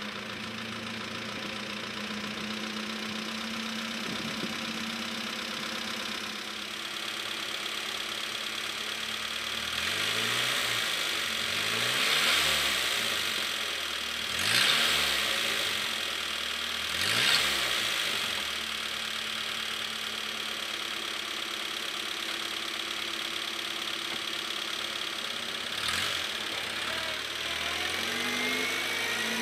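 1951 Crosley truck's original 44 cubic inch water-cooled cast-iron four-cylinder engine idling just after start-up. It is revved three times, each rev rising and falling, between about ten and eighteen seconds in, then settles back to a steady idle.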